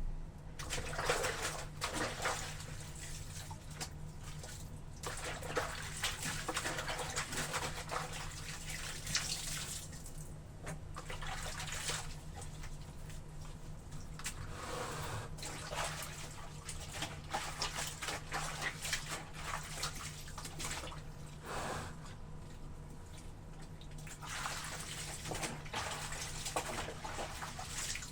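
Wet clothes being washed in water: irregular sloshing and splashing as the laundry is worked.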